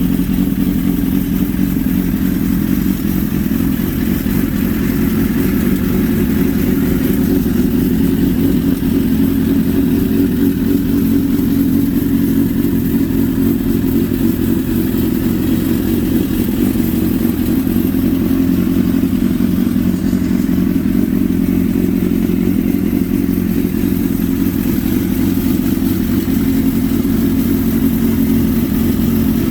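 1992 Suzuki GSX-R750's inline-four engine, a largely stock motor, running steadily at a constant speed after a startup.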